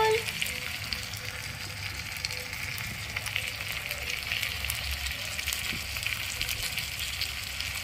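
Small onions, tomatoes and spices frying in a miniature clay pot over a tiny wood fire: a steady sizzle with many fine crackles.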